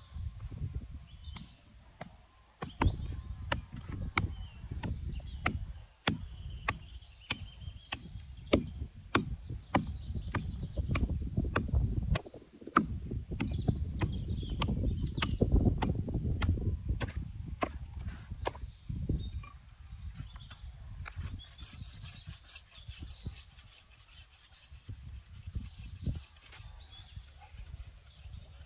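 Wood and dry reed being handled and worked by hand: rubbing and scraping with many sharp cracks and snaps, busiest in the middle.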